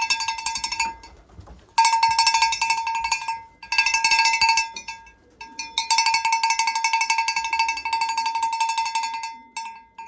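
A bell shaken rapidly in several bouts of ringing, the longest lasting about four seconds, with short pauses between. It is the loft call that young racing pigeons are trained to answer, coming to their keeper when they hear it.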